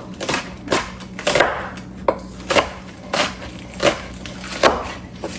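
Kitchen knife chopping through vegetables onto a cutting board: about eight separate, unevenly spaced strokes.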